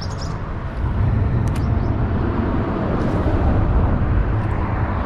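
Highway traffic making a steady low rumble that grows louder about a second in.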